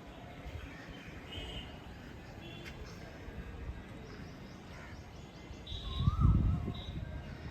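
Outdoor ambience of small birds chirping in short scattered calls over a steady low rumble, with a louder low rumble swelling briefly about six seconds in.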